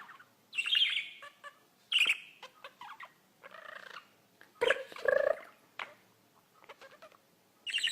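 Small pet bird calling in short chirps and squawks. There are about half a dozen separate calls spread over several seconds, with quiet gaps between them; the loudest come a little after halfway.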